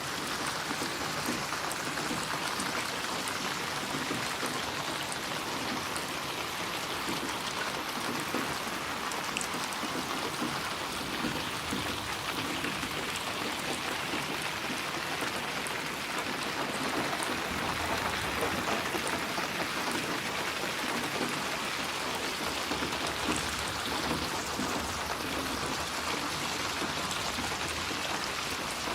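Steady, continuous rain falling and pattering on surfaces.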